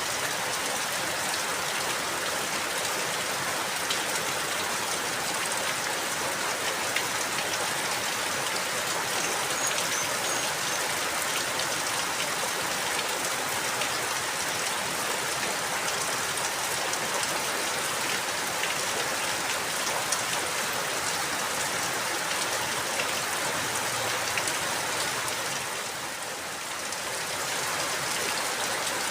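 Steady rain falling, a dense even hiss of drops on a surface with scattered individual drop ticks, easing briefly for a second or so near the end before returning.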